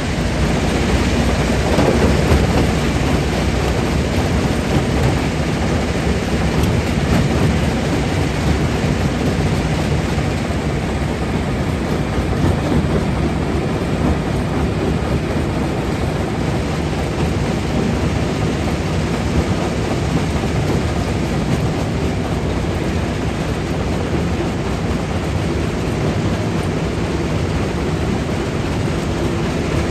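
Stone jaw crusher running and crushing rock: a loud, steady rumble with dense rattling and clatter of stone throughout.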